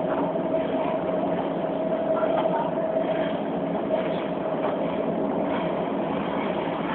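Beijing Subway Line 4 train running: a steady rail rumble with a steady whine.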